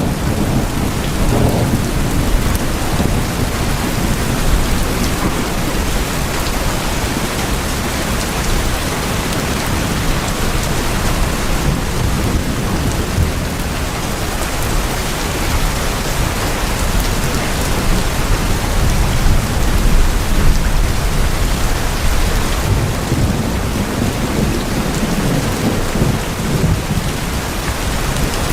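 Heavy rain drumming steadily on tin roofs as a dense, even hiss, with a low rumble underneath that swells a few times.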